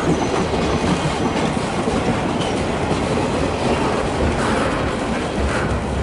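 A train rolling past, with a steady rumble and the clickety-clack of its wheels over the rail joints.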